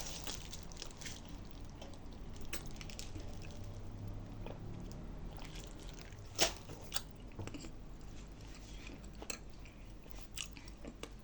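Crunching and chewing of dry nzu clay, scattered crackly clicks as the clay breaks, with one louder crunch about six and a half seconds in, over a low steady hum.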